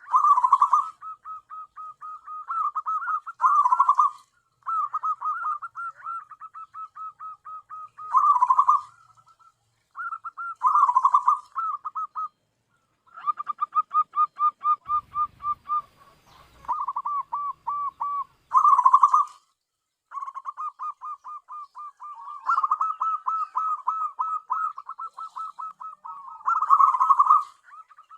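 Zebra dove calling: runs of rapid staccato cooing notes, several a second, many runs ending in a louder burst, with short pauses between them. A few low thumps sound about halfway through.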